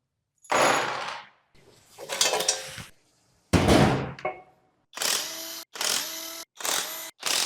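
Hand work on a partly dismantled Audi W12 engine: three noisy knocks or scrapes of metal parts, each fading away. About five seconds in comes a run of short power-tool bursts, about one a second, each with a steady hum and cut off abruptly.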